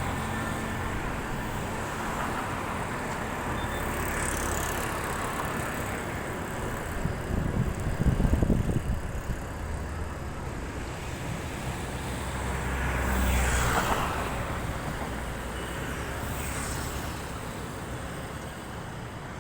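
Road traffic: vehicles passing one after another over a steady low rumble, with a louder stretch about eight seconds in.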